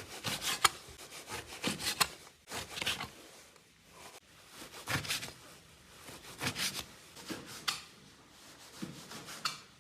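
Kitchen knife cutting on a wooden chopping board in irregular scraping strokes with short pauses between them.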